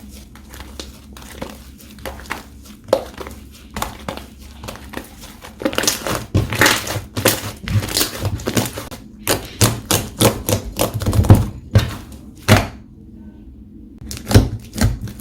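Hands kneading and stretching slime: dense, irregular sticky clicks, pops and squishes. About a second of dead silence falls near the end, then the clicking resumes.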